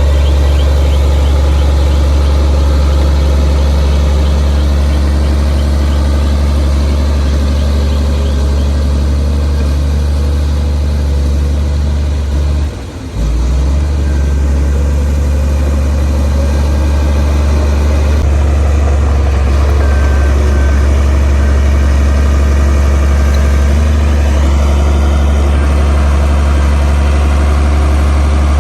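Komatsu D58P bulldozer's diesel engine running steadily with a deep, constant hum, dipping briefly once a little before halfway.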